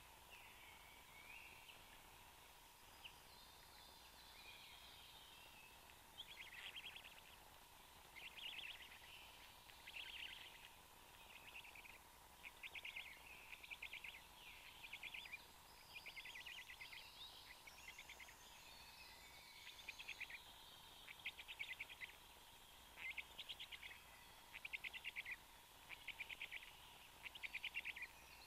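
Faint bird calls: a run of short, rapid trilled calls repeated about once a second, starting several seconds in and getting louder toward the end.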